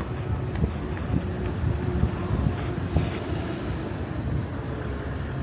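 Town street ambience: a low, uneven rumble of road traffic with wind buffeting the microphone, and a faint steady hum.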